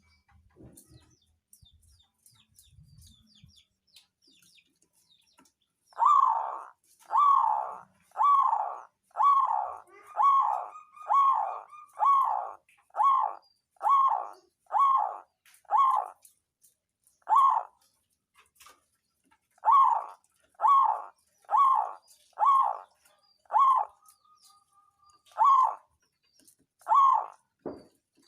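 Zebra dove (perkutut) singing: about nineteen short cooing notes, roughly one a second, starting about six seconds in, with a short break partway through.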